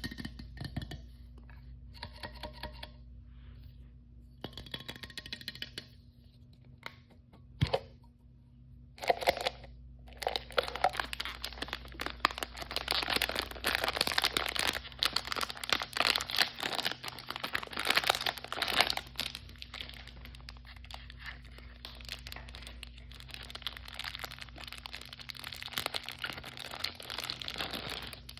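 Plastic blind-bag toy packaging torn open and crinkled by hand: a few short rustles in the first several seconds, then dense, continuous crinkling and crackling from about nine seconds in.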